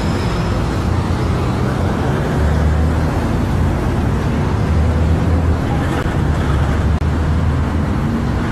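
A motor vehicle driving: steady engine hum and road noise, shifting slightly in pitch, cutting off suddenly at the end.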